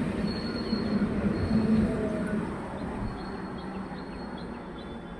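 Electric multiple-unit suburban local train running close past on the rails, a steady rumble with a low hum. The noise eases off about halfway through.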